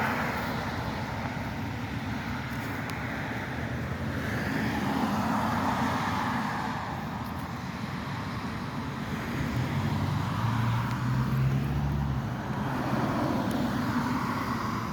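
Road traffic: cars passing, their tyre noise swelling and fading several times, with one vehicle's low engine hum loudest around ten seconds in.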